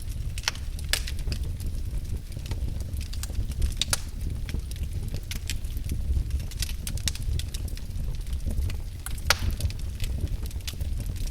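Fire burning in a fireplace, crackling, with sharp pops scattered irregularly over a steady low rumble; one louder pop comes near the end.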